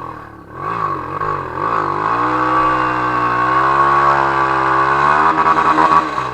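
Off-road trail motorcycle engine revving hard, its pitch dipping and climbing as the rider works the throttle. The revs build and hold high, then turn choppy and uneven near the end.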